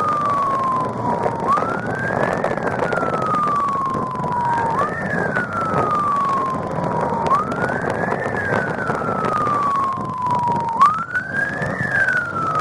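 Police motorcycle siren on a wail cycle: each wail rises quickly and then falls slowly, repeating about every three seconds. It sounds over the motorcycle's engine and road noise during a pursuit.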